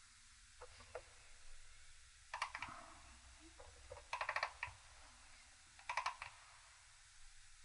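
Faint metallic clicking in four short, rapid runs as the Triumph T120 650 twin engine is turned over by hand with the freshly fitted push rods and rockers in place.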